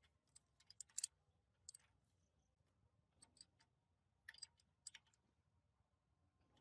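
Light, sharp clicks and taps, a few at a time: a cluster about a second in and another from about three to five seconds in, with near silence between.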